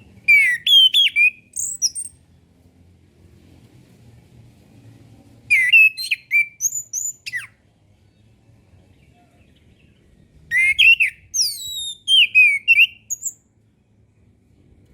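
Orange-headed thrush singing three phrases of clear, quick whistled notes that slide up and down in pitch, with pauses of a few seconds between them. It is a 'masteran' song recording used to train captive thrushes to sing.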